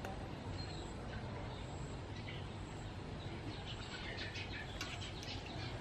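Quiet outdoor background with a steady low rumble and a few faint, short bird chirps, clustered about four to five seconds in.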